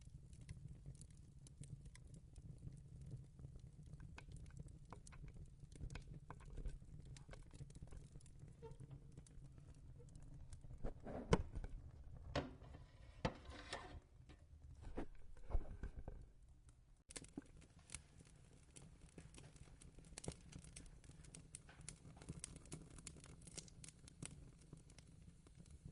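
Fireplace crackling: faint, irregular small pops and snaps over a steady low hum. A cluster of louder knocks and rustles comes about halfway through.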